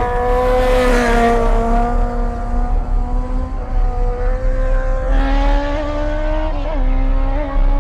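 Car engine held at steady high revs during a burnout, with a hiss of spinning tyres in the first second or so and a few short rev blips near the end.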